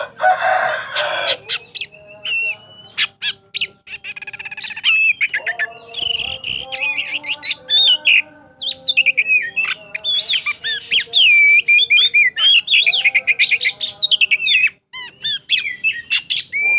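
Oriental magpie-robin (kacer) singing loudly: a varied song of fast rattling trills, rapid clicks and whistled notes sweeping up and down, in the fast machine-gun-like delivery that bird keepers call 'roll tembak'.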